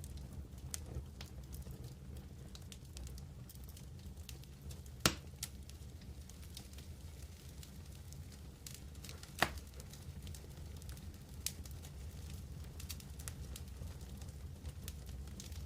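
Campfire burning with a low steady rumble and sparse small crackles. Two sharp pops come about five and nine and a half seconds in, and a smaller one follows a couple of seconds later.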